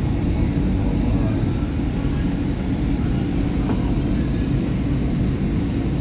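SEPTA Market-Frankford Line subway train (M-4 car) running on the track, a steady low rumble of wheels and running gear.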